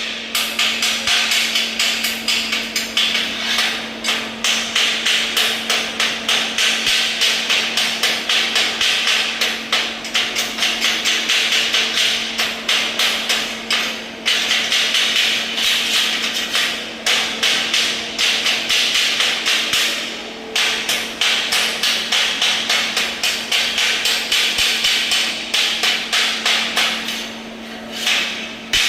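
Metal being struck repeatedly with a hammer in a fast, steady rhythm of about three to four blows a second, broken by a few short pauses, over a steady electrical hum.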